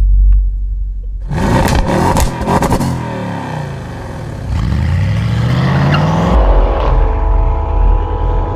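Audi RS6 Avant's twin-turbo V8 accelerating hard: a low rumble, then a sudden surge of revs about a second in, the pitch rising and dropping through gear changes and climbing again, with a deep rumble near the end.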